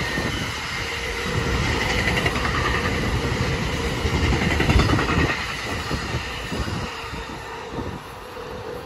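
A commuter train's double-deck passenger coaches rushing past at speed, with a steady rumble of wheels on rail and irregular clacks as the wheels pass over the track. The noise fades away near the end as the train recedes.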